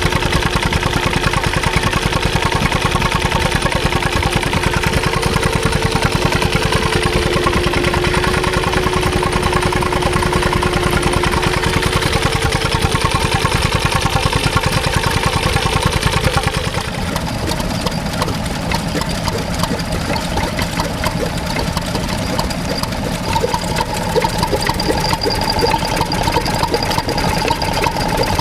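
Stationary engines running with a fast, even beat. About 17 s in the sound changes abruptly to a different engine running a little quieter.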